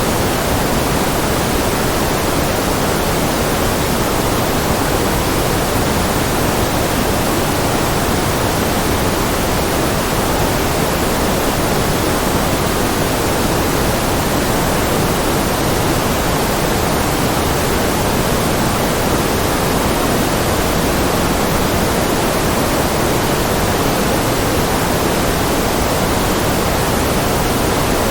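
Generated white noise: a steady, unchanging hiss.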